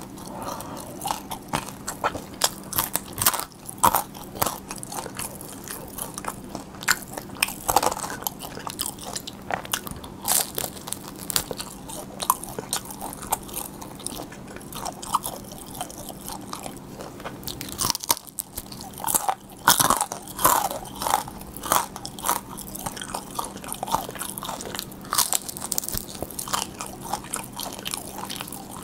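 Close-miked crunching and chewing of crispy pan-fried dumplings (gun-mandu): repeated crackly bites and mouth sounds, some louder crunches around the middle and near the end.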